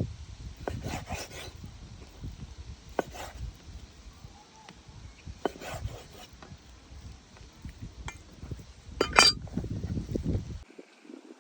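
Scattered knocks and clinks of cooking utensils and cookware being handled, with a louder clatter about nine seconds in, over a low background rumble that cuts off abruptly near the end.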